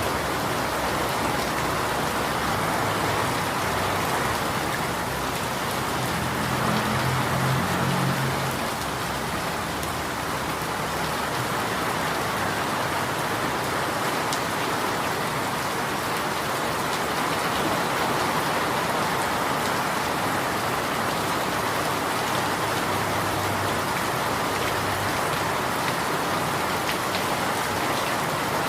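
Steady rain falling, a dense even hiss, with a faint low rumble rising under it briefly about a quarter of the way in and again later.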